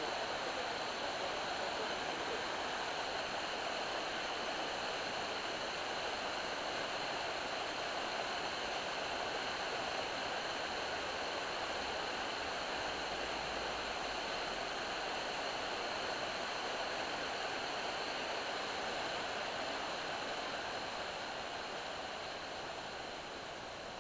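Steady rush of falling water from Katoomba Falls heard from the clifftop, an even hiss-like roar that fades away over the last few seconds.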